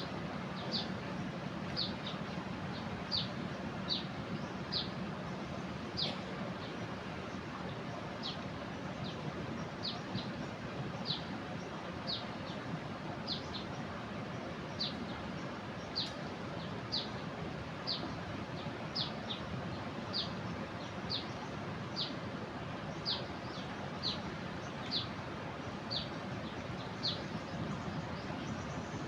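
A bird repeating a short, high, falling chirp about once a second, over the steady rush of a flooded river.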